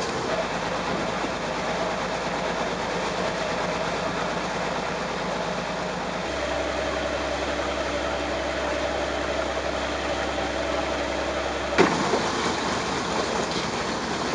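Fishing boat's engine running steadily under a hiss of wind and water; its low hum changes abruptly about six seconds in, and a sharp click comes near the end as the hum drops away.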